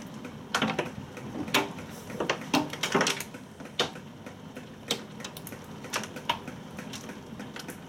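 Scattered ticks and taps of storm precipitation striking a hard surface, irregular and about one or two a second, over a light hiss.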